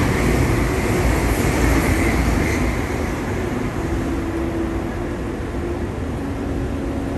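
MTR Airport Express CAF-built train running past: a steady rumble and rushing noise with a faint low hum, easing off slightly about three seconds in.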